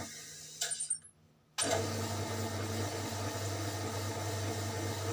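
A small electric motor runs steadily as it polishes a Yamaha Mio M3 cylinder bore with fine sandpaper. It breaks off abruptly about a second in, then starts again just over half a second later and runs on.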